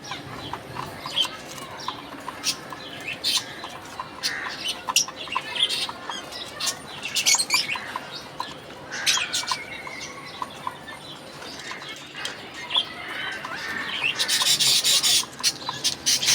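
Budgerigars chirping and chattering while they peck at food, with many short sharp clicks scattered throughout. A burst of dense rustling comes near the end.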